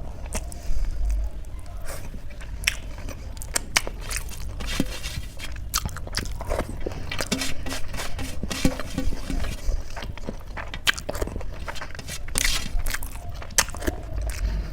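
A person chewing and crunching food, with many small sharp crunches and clicks throughout.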